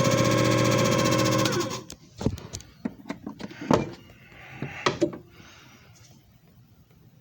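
JFJ Easy Pro disc repair machine motor running with a steady hum, then switching off and winding down about a second and a half in. Handling clicks and knocks follow for a few seconds.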